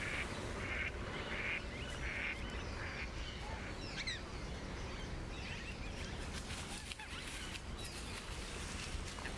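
Outdoor ambience with birds calling: four evenly spaced calls, about two-thirds of a second apart, in the first two seconds or so, then a few quick chirps sweeping downward, over a steady low rumble.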